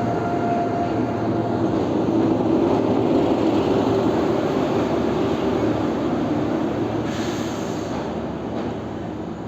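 Train running along the track: a steady rumble of wheels on rails that eases off over the last few seconds.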